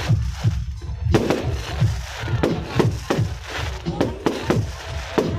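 Fireworks display: aerial shells bursting in a rapid, uneven string of sharp bangs, about two to three a second, over a continuous rumble of further bursts.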